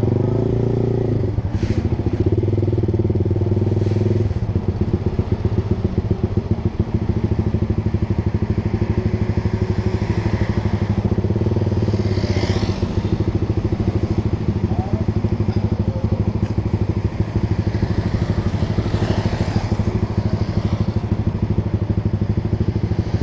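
Honda Sonic 150R's single-cylinder engine running through an aftermarket Proliner TR1R short exhaust, holding a steady engine speed with an even, pulsing exhaust note.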